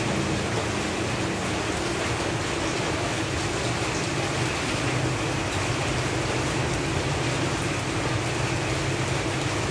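Steady rain falling on leaves, with fine pattering. A low, steady hum runs underneath.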